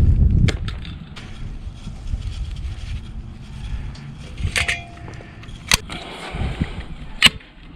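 Outdoor carpet being cut and handled with a utility knife whose blade is dull: scraping and rustling, with several sharp clicks, the loudest in the second half.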